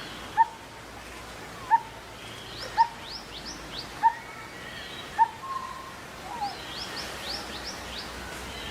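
Birds calling over outdoor ambience: one bird repeats a short rising note about once a second, while others give quick runs of high chirps.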